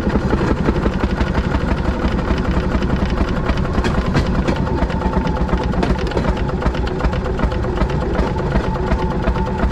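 Railroad speeder's small engine running steadily with a fast, even clatter.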